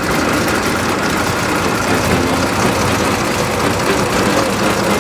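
1922 Franklin 9-B's air-cooled six-cylinder engine running steadily.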